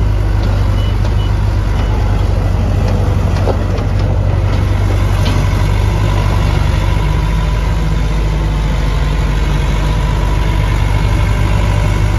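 The 60 HP Cummins diesel of a Case 1845C skid steer loader running steadily at a low, even speed. Three faint short beeps sound about a second in.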